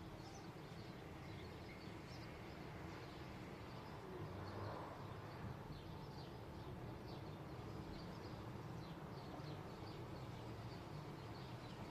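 Small birds chirping faintly, with many short high chirps coming more often in the second half, over a steady low rumble of background noise.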